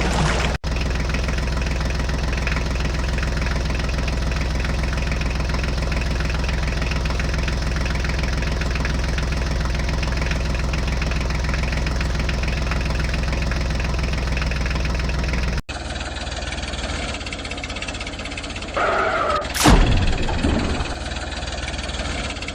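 Tractor engine running steadily with a low, even drone. After an abrupt cut, a different engine sound follows, with a short, loud sweep in pitch near the end.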